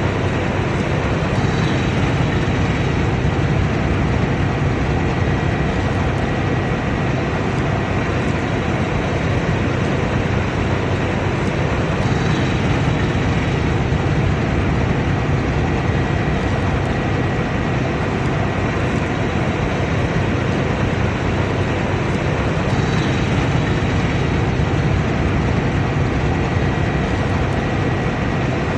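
Combine harvester running steadily at work: a loud, even machine noise with a low engine hum and a faint steady high whine.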